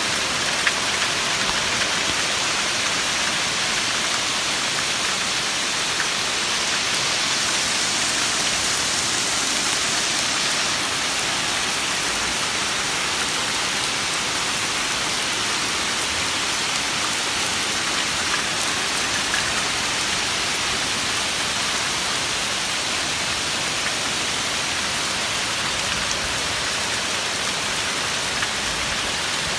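Heavy rain pouring down steadily, with a few sharp ticks scattered through it.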